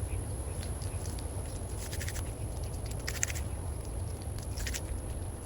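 Hands kneading and pressing two-part steel epoxy putty: faint crackly handling clicks in three short clusters, about two, three and nearly five seconds in, over a steady low rumble.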